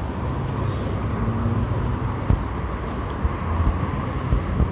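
A steady low engine drone under a continuous rushing noise, with two short knocks about two and a half seconds apart.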